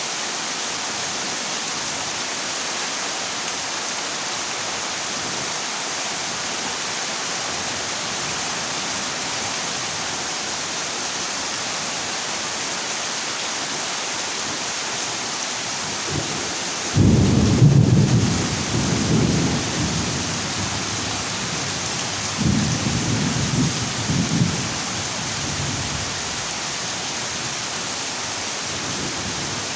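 Heavy rain falling steadily on a zinc roof, with thunder rumbling low. The first rumble starts just past halfway and lasts about three seconds, the second follows a few seconds later, and another begins near the end.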